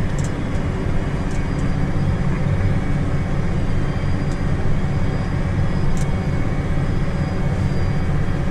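Tractor engine running steadily, a low even rumble, with a few faint clicks.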